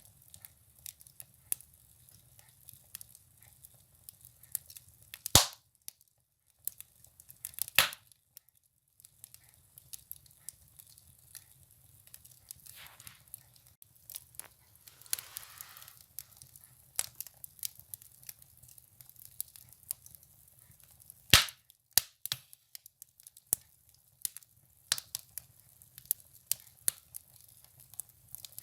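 Firewood burning in a stove, crackling with irregular small pops and a few louder cracks about 5, 8 and 21 seconds in. A brief soft hiss comes about halfway through.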